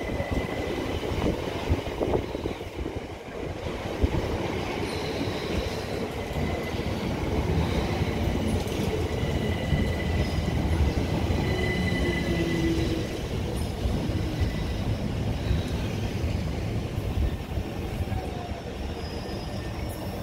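Electric multiple-unit passenger train running slowly past along a curved platform: a steady rumble of wheels on rail, with a thin high squeal from the wheels on the curve coming and going.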